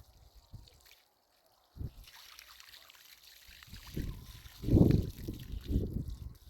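Water trickling and being poured, with a faint hiss and a few irregular low sloshing thuds, the loudest about five seconds in.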